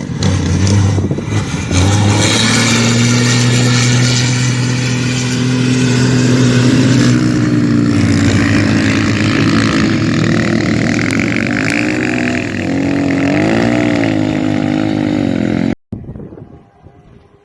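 Rally vehicle's engine running at high revs, held steady for several seconds and then rising and falling in pitch near the end, before it cuts off abruptly.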